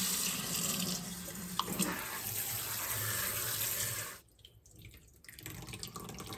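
Kitchen tap running cold water over fresh chhena curds in a cheesecloth-lined strainer, rinsing out the vinegar. The water is shut off about four seconds in.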